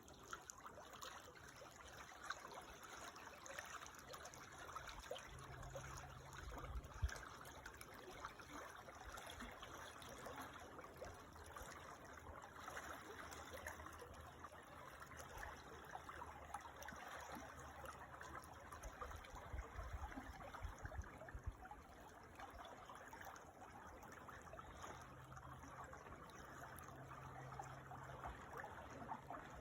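Creek water trickling and flowing steadily, faint, with a low rumble coming and going underneath.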